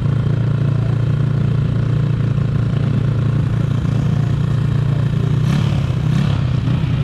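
Pit bike engine running at a steady pitch, with a couple of brief clattering noises about five and a half and six seconds in.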